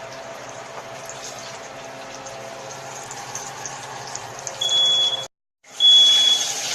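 Hot oil sizzling and crackling as battered chicken deep-fries, then a smoke alarm goes off with a loud, steady high-pitched beep about four and a half seconds in, sounding again near the end after a brief dropout.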